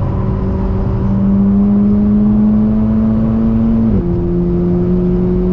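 Volkswagen Golf 6 R's turbocharged four-cylinder engine pulling hard at high revs, its pitch climbing slowly, then dropping sharply about four seconds in at an upshift before climbing again.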